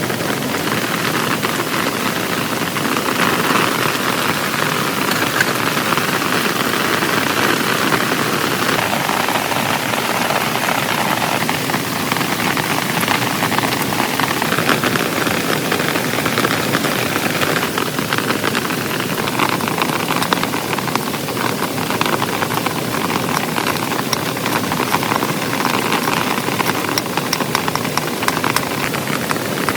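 Heavy rain falling steadily, a dense hiss of countless drops with many separate drop hits pattering on a surface.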